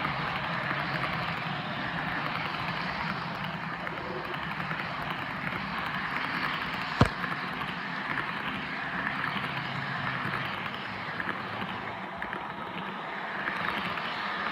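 An HO scale Broadway Limited AC6000 model locomotive running with its onboard diesel engine sound on, a steady engine rumble and hiss from a small speaker. A single sharp click comes about seven seconds in.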